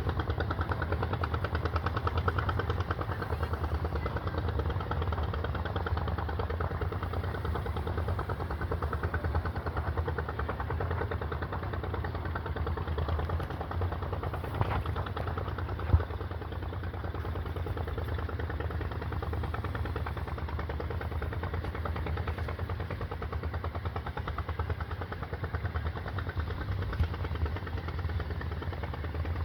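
A small engine running steadily, with rapid, even firing pulses. A single sharp knock about sixteen seconds in.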